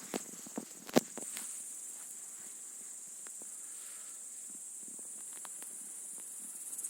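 Crickets chirping in a steady, high-pitched insect chorus, with a few sharp clicks in the first second, the loudest about a second in.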